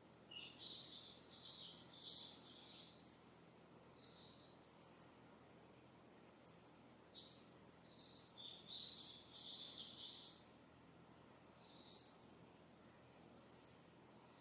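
Wild songbirds singing: quick high chirps and trilled phrases, with a denser run of song about a second in and again around the middle, and scattered single chirps between.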